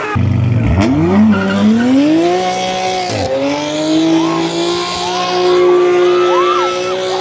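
Performance car engine revving hard: its pitch climbs, drops briefly about three seconds in as a gear is changed, then climbs again and holds high.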